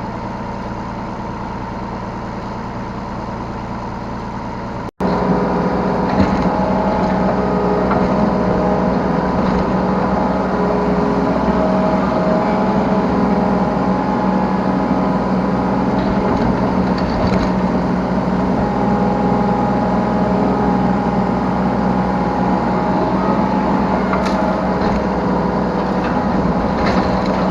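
Yanmar B3 Sigma 3-ton mini excavator's diesel engine running steadily under working load, heard from the operator's seat. About five seconds in, the sound cuts out for an instant and returns louder, with a few light knocks later on.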